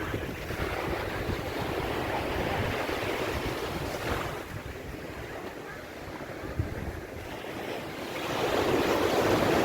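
Ocean surf washing onto a beach, a noisy rush that swells over the first few seconds, eases, then builds to its loudest near the end. Wind rumbles on the microphone throughout.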